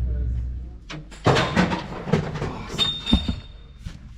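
Sheet-metal panels of a John Deere S690 combine being banged and pounded to knock dust loose: several irregular knocks with rattling, and a brief high squeal of metal near the end. A low hum dies away about a second in.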